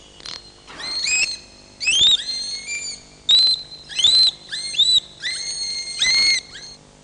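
Seagull cries used as a sound-effect intro to a rock song. There are about eight calls, each a quick upward cry that levels off and holds briefly.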